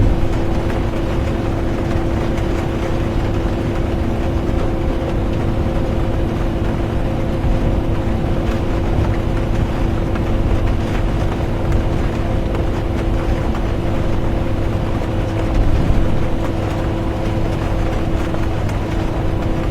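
Inside a bus on the move: a steady low rumble of engine and road noise with a constant hum, and rain on the bus.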